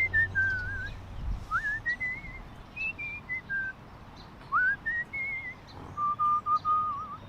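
A person whistling a meandering tune in short gliding phrases, ending on a longer steady note, to call animals over.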